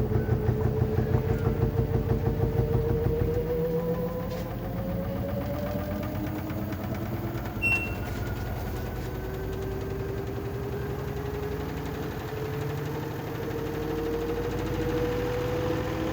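LG washing machine spinning up: a motor whine rising slowly in pitch, with rapid rhythmic thumping for the first few seconds that then settles into a steadier hum. A short high beep sounds about halfway through.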